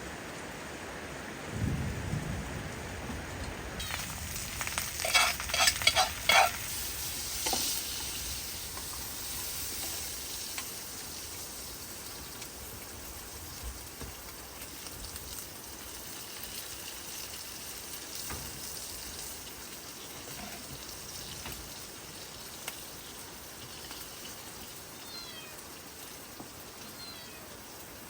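Steady hiss of rain. A low thud comes about two seconds in, and a quick run of sharp knocks follows a few seconds later.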